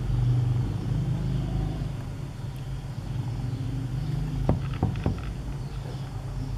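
A steady low mechanical hum, with three sharp clicks in quick succession about four and a half seconds in.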